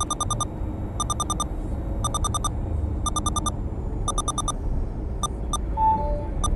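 Electronic warning beeper in a vehicle sounding rapid trains of about five short, high beeps, one train each second, then a few single beeps near the end, over the steady rumble of the moving vehicle.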